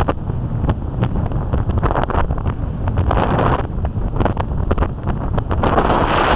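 Strong wind buffeting the microphone: a heavy low rumble with crackling pops, louder near the end.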